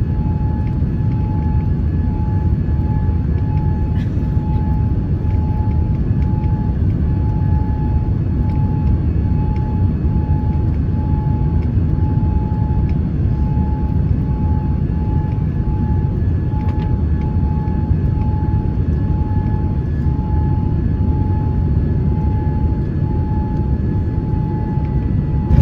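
Cabin noise of a Boeing 787 Dreamliner on final approach: a steady low rumble of engines and airflow, with a faint tone pulsing about one and a half times a second.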